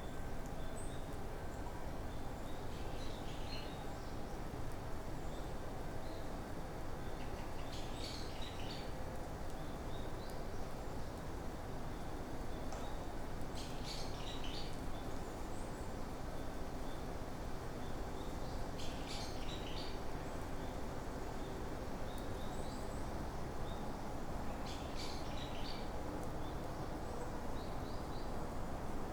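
Forest ambience: a songbird repeats a short, high phrase about every five to six seconds over a steady low rushing background noise.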